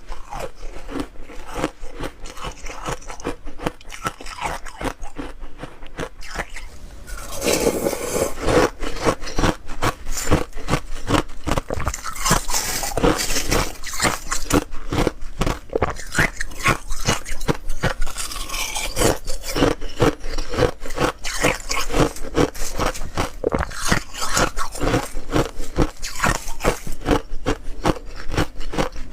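Ice being bitten and chewed close to the microphone: a dense run of rapid crunches and cracks that gets louder and harsher several seconds in.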